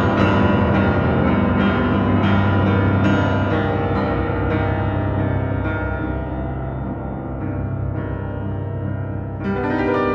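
Solo piano playing dense, ringing chords over a held low bass, with repeated strikes at first. The sound thins and fades through the middle, then a loud new chord is struck near the end.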